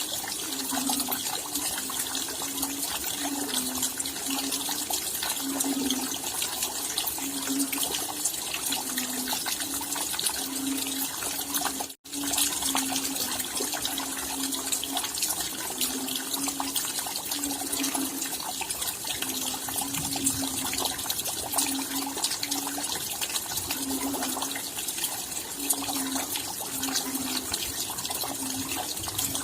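Steady rain: a dense patter of raindrops, with heavier drops landing irregularly, several times a second, as short low plinks. The sound cuts out for a split second about twelve seconds in.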